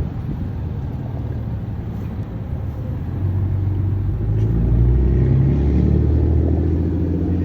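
A motor vehicle's engine running close by, a low rumble that grows louder a little before halfway through and stays up.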